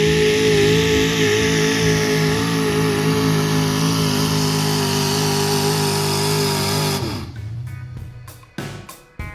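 Heavily modified 4x4 pulling truck's engine running loud at high, steady revs through a pull, then its revs drop away quickly about seven seconds in. Music with a drum beat starts near the end.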